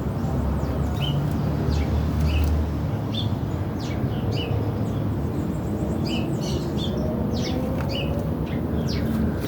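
Small birds chirping: short, high chirps repeated about once or twice a second, over a steady low rumble.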